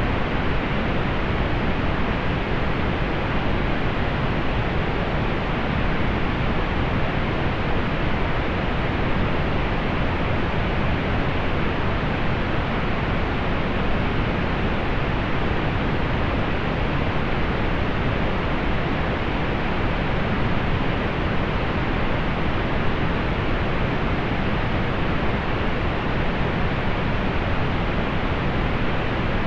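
Steady synthetic pink noise, an even hiss weighted toward the low end and rolled off in the highs, unchanging throughout.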